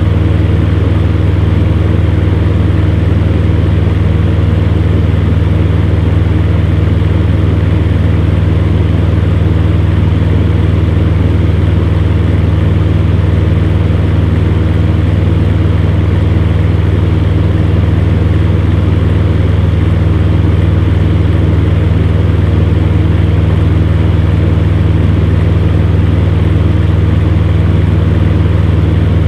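Electric fan heater running steadily: a deep, even motor hum with the rush of blown air over it.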